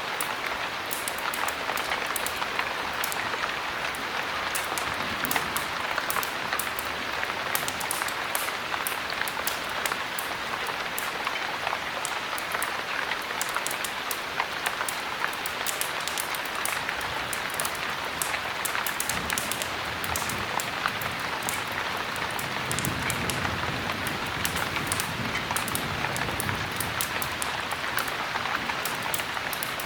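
Steady heavy rain with a dense patter of sharp ticks, mixed with a crackling wood fire. A soft low rumble swells in the second half.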